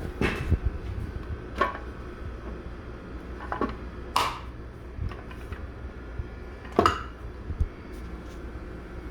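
A few sharp knocks and clatters of hard objects being handled, about five in nine seconds, over a steady low hum.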